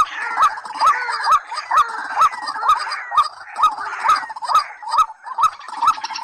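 Rail calls repeated in a steady series: short notes that hook upward in pitch, a little over two a second, each with a sharp click.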